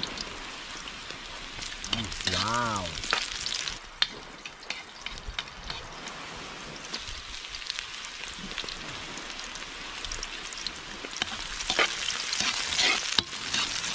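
Garlic and ginger sautéing in hot cooking oil in a wok: a steady sizzle with fine crackling, louder near the end.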